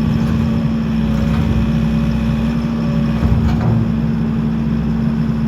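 Skid steer's engine running steadily at high revs, with a couple of brief clanks about midway.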